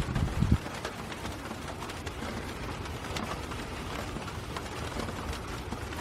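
Steady rain falling in a thunderstorm, a constant hiss with fine patter, and a brief low thump in the first half second.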